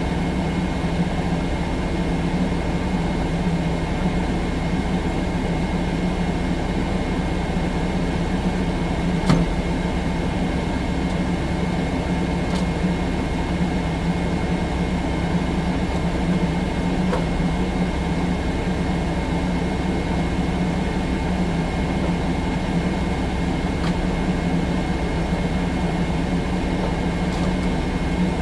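Tracked skid steer loader's diesel engine running steadily under load, with a steady high whine over the low drone and a single sharp click about nine seconds in.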